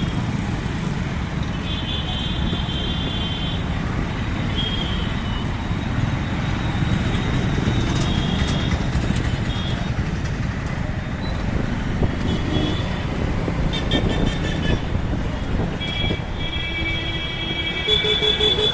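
Busy city street traffic heard from a moving motorbike: a steady low rumble of wind and road, with vehicle horns honking again and again, most often near the end.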